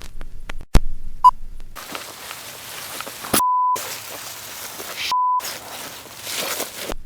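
Censor bleeps: a tiny blip about a second in, then two short flat electronic beeps about a second and a half apart, each replacing the sound around it. Between them is a hiss of background noise with a few sharp clicks.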